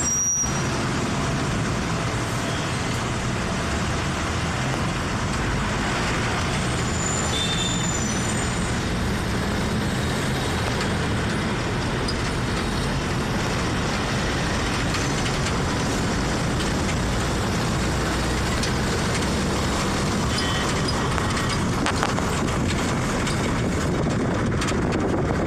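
Steady, even rush of road noise from a vehicle travelling along a highway, with a few faint brief high squeaks about seven to eight seconds in.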